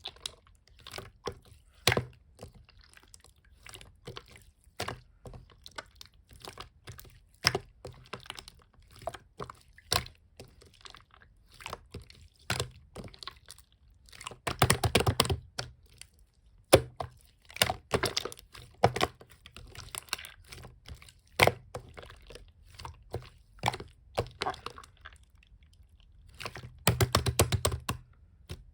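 Slime being squished, poked and stretched by hand, making scattered sticky clicks and pops, with two spells of rapid crackling clicks, about halfway through and near the end.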